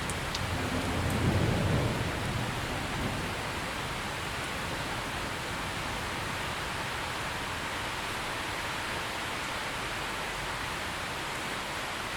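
Steady heavy rain hissing. A low rumble of distant thunder swells in the first seconds, peaks about a second and a half in and fades by about three seconds in.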